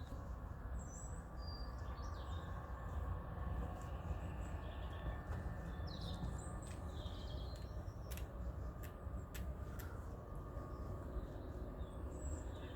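Small birds chirping now and then over a steady low rumble, with a few sharp clicks about eight to ten seconds in.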